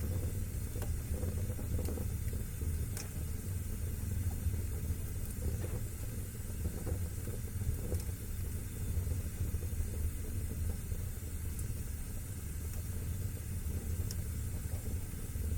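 Wood fire burning in a fireplace: a steady low rumble of the flames with soft crackling and a few sharp pops, one about three seconds in and another near the end.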